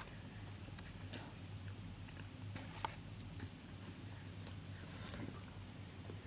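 A person chewing food with small mouth clicks and smacks, one sharper click about three seconds in, over a low steady hum.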